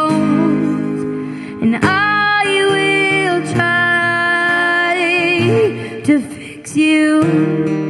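A solo voice singing a song, holding long sustained notes with vibrato over instrumental accompaniment.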